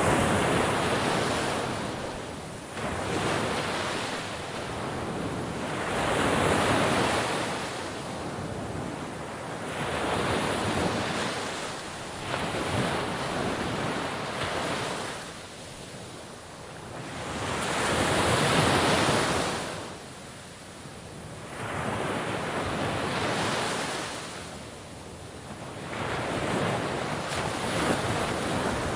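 Sea waves breaking and washing on the shore, the surf swelling and falling away every three to four seconds, with the loudest wash about two-thirds of the way through.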